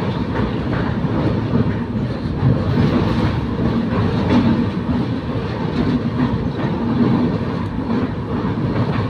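Train running over a rail bridge across a river: a steady rumble of wheels on track, with faint repeated knocks throughout.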